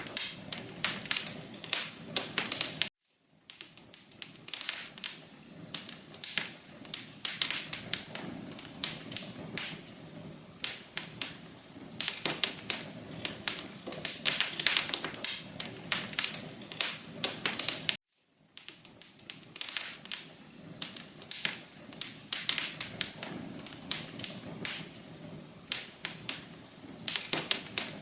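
Wood fire crackling in a fireplace: dense, irregular pops and snaps over a soft low rumble. The sound cuts out briefly twice, about three seconds in and again about eighteen seconds in.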